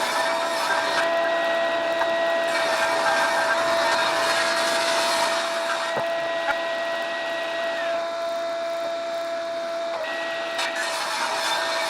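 An electric woodworking power tool's motor running steadily at one pitch, with two louder stretches of hiss, about three seconds in and again near the end.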